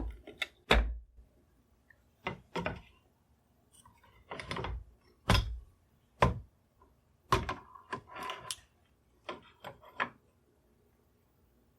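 Krag–Jørgensen barreled action and wooden stock blank being handled and set together: a series of irregular knocks of metal and wood against each other and the bench, with a couple of short scraping stretches.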